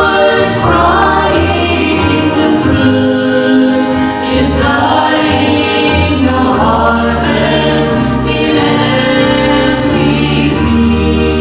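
A group of voices singing a gospel song in harmony with instrumental accompaniment, holding long sung notes over a bass line.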